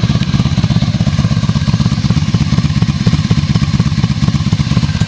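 1994 Honda Magna's V4 engine idling steadily through an aftermarket Cobra exhaust, with an even, fast exhaust pulse.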